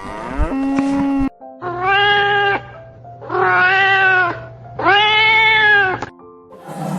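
A domestic cat meowing three times, each a long drawn-out meow that rises and falls in pitch, over background music.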